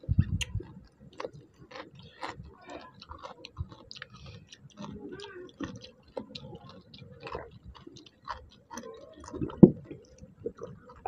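Close eating sounds of people eating rice and chicken curry by hand: irregular wet chewing and small mouth clicks, with one louder knock near the end.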